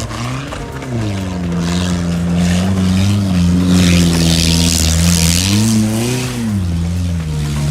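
A low-pitched vehicle engine running hard, its revs rising and falling several times, with a loud hiss over it for most of the middle of the stretch.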